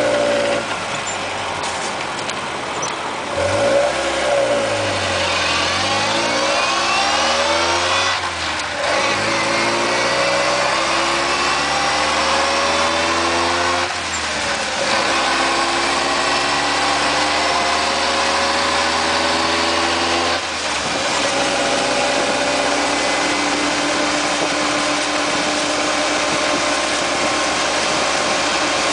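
Mitsubishi Jeep J58 pulling away and accelerating through the gears. The engine and drivetrain pitch climbs in each gear, with gear changes about 8, 14 and 20 seconds in, then settles to a steady cruise. Its transmission is making the abnormal noise the owner is demonstrating.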